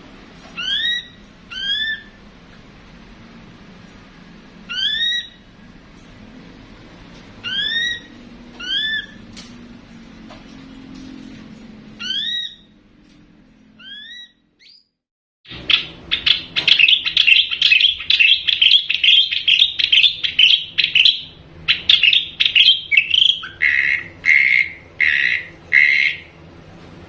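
Ashy drongo calling: single rising whistled notes every second or two, then after a brief break about halfway, a long rapid run of chattering notes that ends with a few lower notes.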